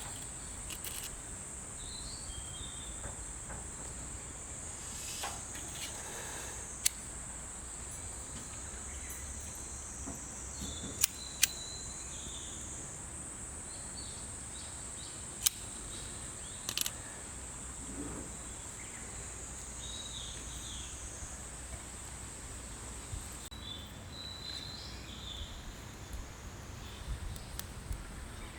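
Steady high insect chirring, likely crickets, with a handful of sharp clicks or snaps scattered through it.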